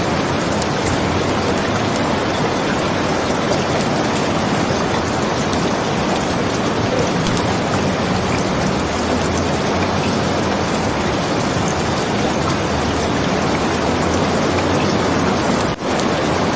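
Steady heavy rain, an even hiss with no let-up, broken by a brief sudden dip about a second before the end.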